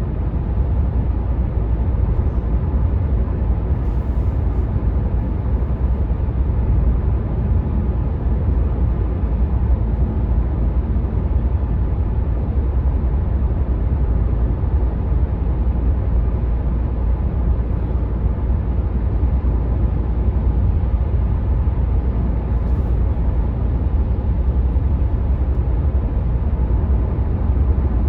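Steady motorway cruising noise of a 2019 Renault Mégane IV 1.5 dCi heard from inside the cabin: a constant deep rumble of tyres on the road mixed with wind noise, with no changes.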